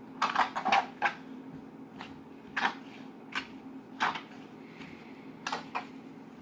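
Slime being worked by hand, giving a quick cluster of short sharp pops and clicks in the first second and then single pops every second or so, over a low steady hum.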